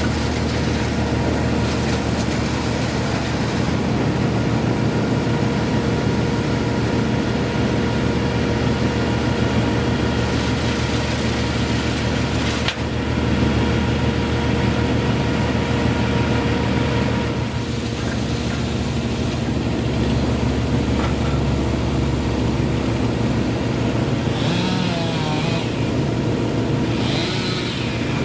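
A large engine-driven machine running steadily under power, an even drone with no pauses.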